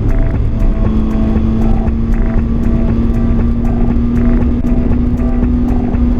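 Motorcycle engine running steadily at road speed, its note holding and creeping slightly higher, with wind rushing over the microphone.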